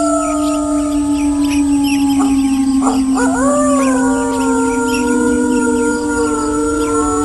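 Several wolves howling together, long held cries overlapping, with a fresh howl rising and then falling about three seconds in. A couple of short sharp sounds come just before that new howl.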